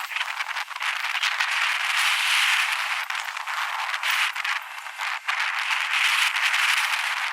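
Wind rushing over the microphone while riding an electric skateboard: a rough hiss that swells and fades several times, broken by many small rattling clicks.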